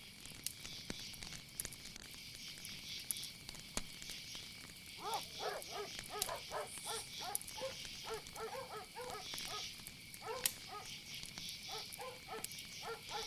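Night nature ambience: a steady high insect trill, joined about five seconds in by a run of short, quickly repeated animal calls.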